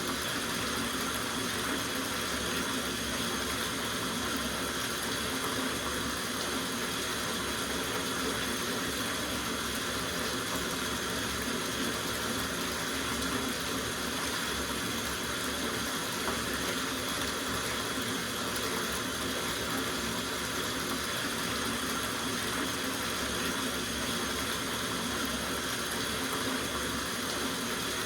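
Water running steadily from a tap into a soaking bathtub, an even rushing with no changes.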